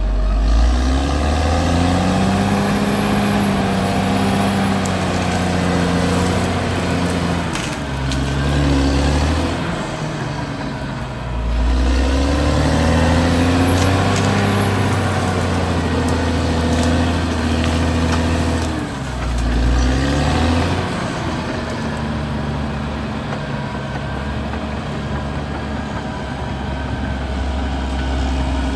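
Caterpillar D6R XL bulldozer's diesel engine working under load, its pitch rising and falling several times as it pulls hard and then eases off.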